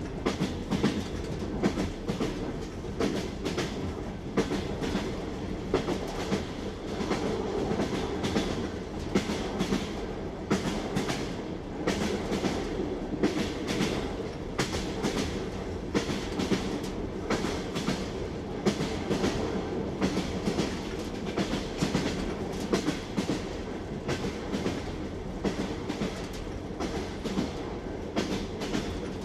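Train wheels clattering over the rail joints: a steady low rumble of a moving railway carriage with frequent sharp clicks and knocks.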